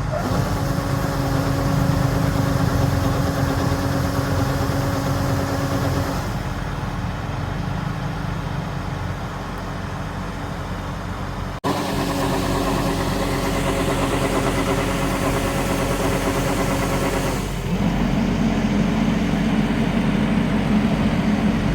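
LOVOL RG130 EVO rice combine harvester running, a steady machine drone with a high whine over it. The whine cuts out and comes back a couple of times, with one sudden break about halfway through.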